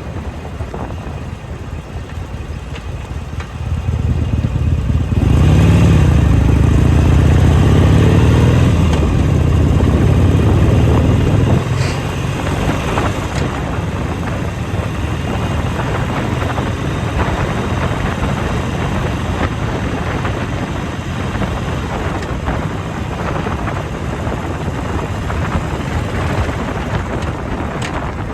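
Motorcycle riding on the road: the engine swells and its pitch rises and falls for several seconds after a few seconds, then settles under a steady rush of wind and road noise.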